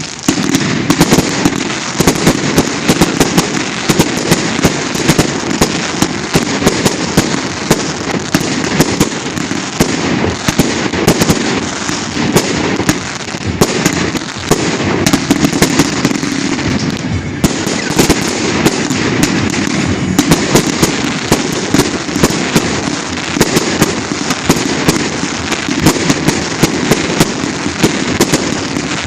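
A professional fireworks display: a continuous barrage of sharp bangs from bursting shells over a dense, unbroken crackle, many reports a second.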